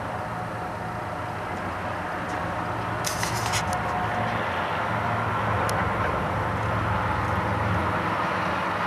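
Diesel locomotives of an approaching freight train, their engines running with a low hum that grows louder, and a brief clatter of sharp metallic clicks about three seconds in.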